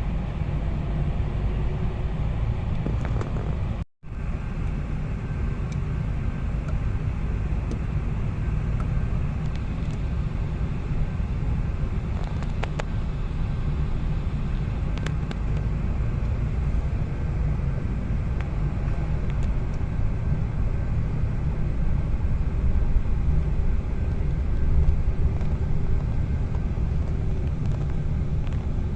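Car driving on the road: a steady low rumble of engine and tyres, with a brief cut to silence about four seconds in.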